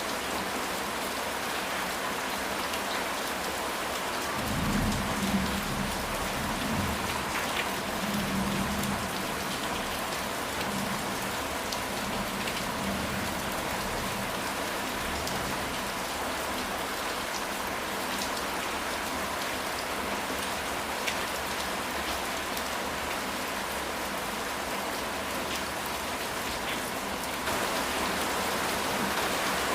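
Steady rain falling on a house roof, with a low rumble of thunder starting about four and a half seconds in and lasting a few seconds; the rain gets a little louder near the end.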